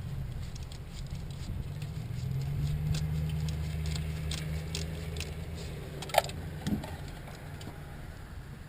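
Scattered light clicks and taps, with one sharp click a little after six seconds in, over a low steady hum that swells in the middle and fades near the end.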